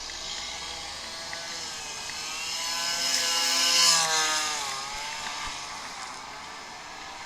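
A motor vehicle passing by: its engine grows louder to a peak about four seconds in, then drops in pitch and fades as it goes past.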